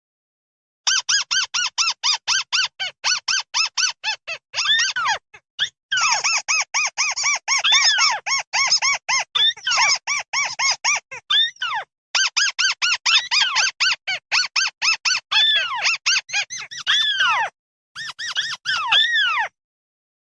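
Flock call of the bird known in Vietnam as mắt xéo: long runs of short, arching call notes, about five a second, in four bursts with brief breaks between them.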